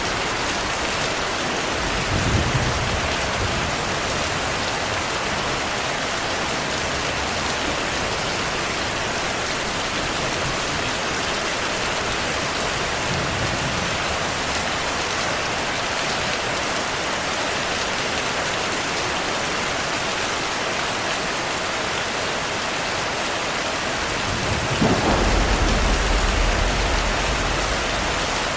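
Heavy, steady rain with low rolls of thunder: a short one about two seconds in, and a longer, louder rumble starting near the end.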